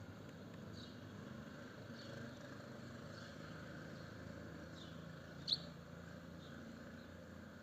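Scattered short, high bird chirps, about one a second, the loudest about five and a half seconds in, over a faint steady low hum.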